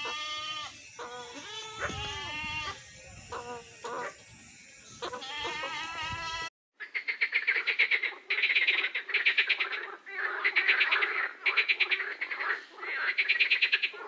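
Goat kid bleating, a series of short wavering calls. About six and a half seconds in it cuts to a louder, fast rattling call made of many rapid pulses, repeated in bursts of about a second each.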